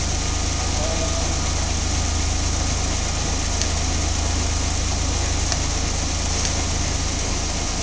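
Steady hum and noise of running machine-shop machinery, unchanging throughout, with a couple of faint clicks.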